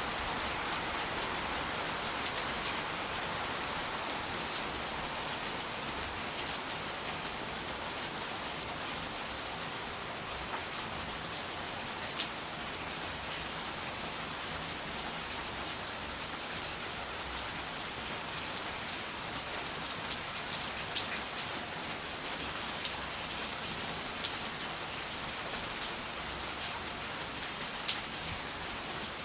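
Steady rain falling, an even hiss with scattered sharp drops striking close by.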